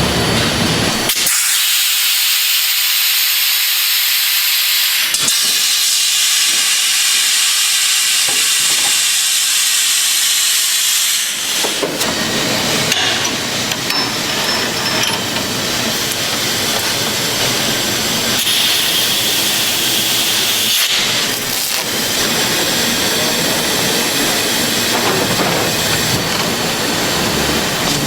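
Factory production machinery running. A steady high hiss comes first, then from about a third of the way in the fuller noise of running machines with a few knocks.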